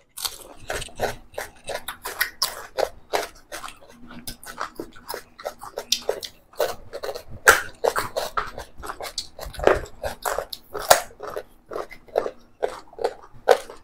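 Close-miked wet chewing and lip-smacking of two people eating boiled eggs by hand, a quick run of smacks and clicks several times a second.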